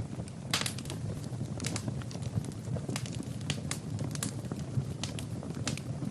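Wood fire in a fireplace crackling: irregular sharp pops and snaps, a few a second, over a steady low rumble of burning.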